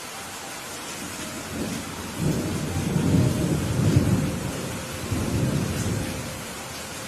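Steady rain falling, with a roll of thunder that builds about a second and a half in, rumbles low for several seconds and fades away near the end.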